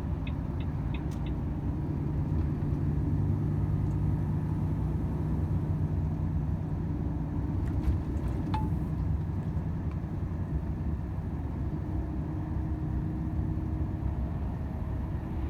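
Volvo FH 500 truck's 13-litre straight-six diesel running at cruise, heard inside the cab as a steady low drone mixed with road noise.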